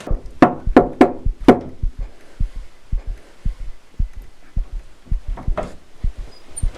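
Heartbeat sound effect in a horror soundtrack: paired low thumps repeating about every half second, with several sharp, loud hits in the first second and a half and another about five and a half seconds in.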